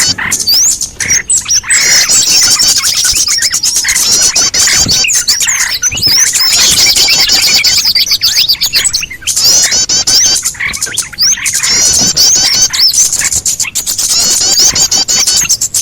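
A dense chorus of small birds chirping and twittering, rapid high calls following one another almost without pause, with a few short breaks: a bird-lure recording played to draw small birds in.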